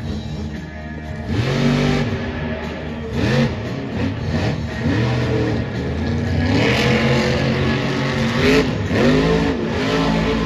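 Monster truck's supercharged, alcohol-burning engine revving in repeated bursts, its pitch rising and falling with each blip of the throttle.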